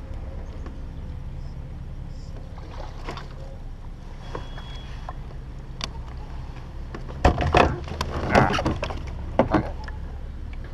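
A quick cluster of sharp knocks and rattles against a plastic fishing kayak, coming about seven seconds in and lasting a couple of seconds, from fish and gear being handled on board.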